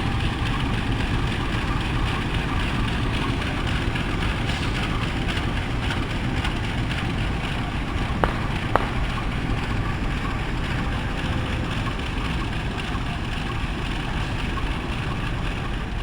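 Passenger train running along the track, heard from on board: a steady rumble of wheels and running gear, with two short clicks a little after halfway.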